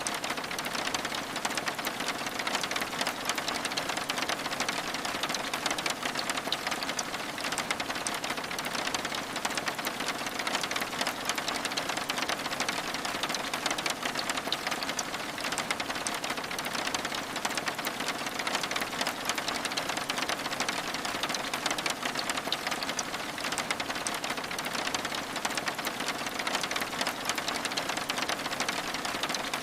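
Steady rain on window glass: an even hiss thick with fine, fast ticks of drops, unchanging throughout.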